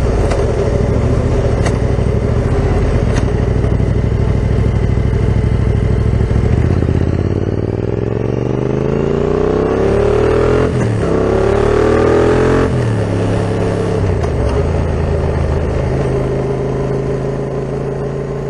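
Yamaha MT-07's 689 cc parallel-twin engine through an Akrapovic full carbon exhaust, running at a steady note. About halfway in it climbs in pitch, dips briefly, and climbs again. It then drops back suddenly to a steady lower note.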